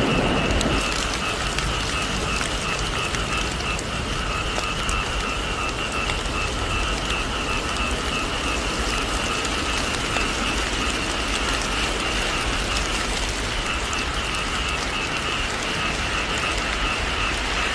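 Heavy rain falling steadily, a dense, even patter of drops with a fine ticking texture. The tail of a thunder rumble dies away in the first second.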